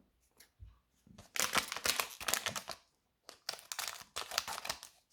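Foil Pokémon booster pack wrapper being crinkled and torn open, in two bouts of rustling.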